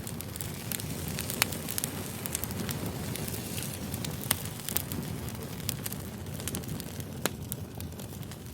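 Campfire crackling: a steady low rumble with sharp pops and snaps scattered irregularly through it.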